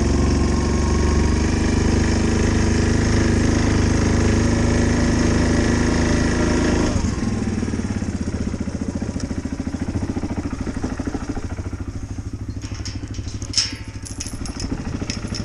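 A vehicle engine running steadily. About seven seconds in it turns quieter with an even chugging beat, and a few sharp clicks sound near the end.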